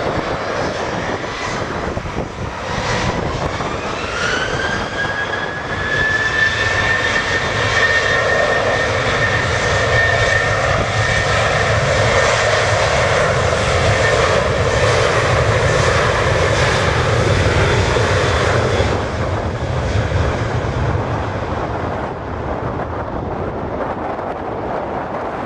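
Boeing 737-700's CFM56-7B turbofan engines spooling up to takeoff thrust: a whine rises in pitch a few seconds in, then holds steady over a loud rumble through the takeoff roll. About three-quarters of the way through, the sound drops and turns duller as the jet moves away.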